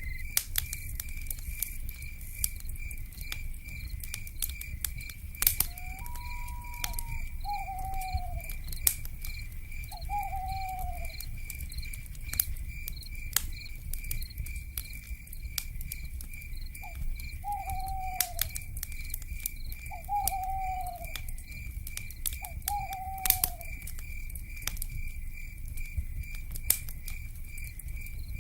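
Crackling campfire with frequent sharp pops over a low rumble, while night insects trill in a steady fast pulse. An owl gives six short falling calls, spaced a few seconds apart.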